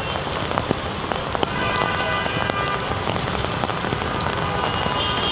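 Heavy rain falling steadily, with scattered sharp hits of drops.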